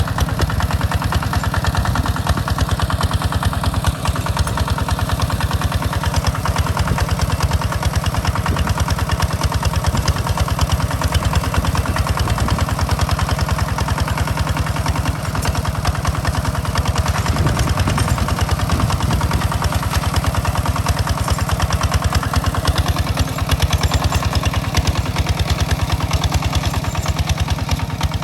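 Two-wheel walking tractor's engine running steadily with a fast, even beat while plowing a rice field.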